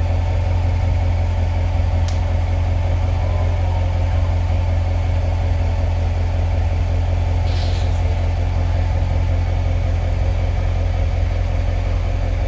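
Chevrolet C7 Corvette's V8 engine idling steadily with a low rumble while the car creeps backward. There is a short hiss about seven and a half seconds in.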